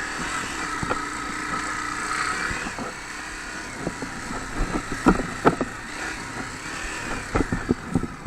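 Honda CRF250 dirt bike's single-cylinder four-stroke engine running steadily, fading out about three seconds in. It is followed by a run of irregular knocks and thumps, loudest around the middle and near the end.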